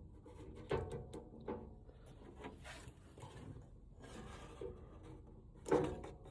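A few sharp knocks and some rubbing from equipment being handled, the loudest knock near the end, over a faint steady hum.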